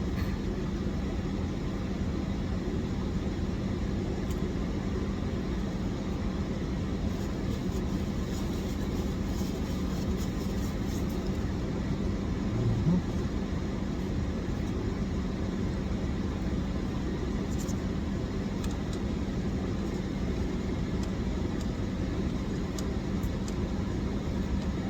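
Steady low rumble of a running vehicle, with a faint steady hum underneath and one brief low sound about 13 seconds in.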